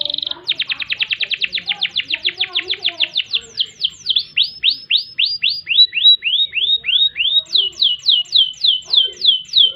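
Canary singing a long run of repeated down-slurred whistled notes, changing tour as it goes: a very rapid series of about ten notes a second, then slower, lower sweeps from about four seconds in, then a higher-starting series near the end.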